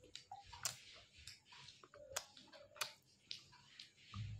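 Baked clay roll being bitten and chewed: a scatter of sharp, crisp crunches and crackles, a few each second, with a louder crunching bite at the very end.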